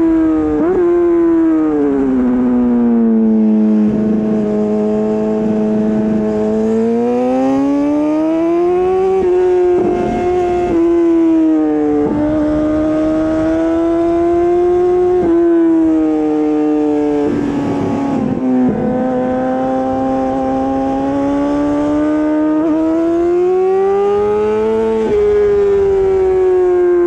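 Honda CBR600RR inline-four engine breathing through an Akrapovic exhaust while being ridden: the revs climb and fall smoothly, with several abrupt pitch steps from gear changes.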